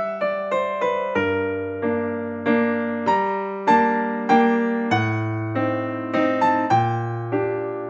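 Background piano music: a gentle melody of single plucked-sounding notes over slowly changing bass notes, each note decaying.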